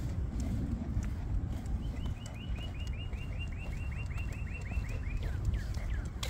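A bird singing a fast run of short, falling chirps, about seven a second. The run starts about two seconds in, then slows and drops lower near the end. Under it is a steady low rumble from walking with the phone.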